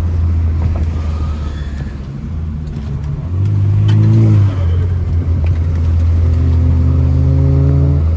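BMW 328i's turbocharged four-cylinder engine pulling under load. It revs up about three seconds in, drops back about a second later, then holds steady and climbs slowly again near the end.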